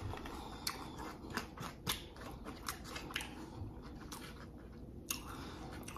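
Close-miked chewing of a mouthful of a burrito bowl, with many short wet mouth clicks. A plastic fork scrapes and picks at the food in a takeout bowl.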